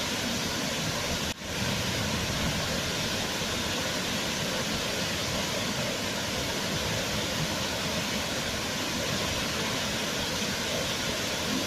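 Waterfall: steady rushing of falling water, with a brief drop in level about a second in.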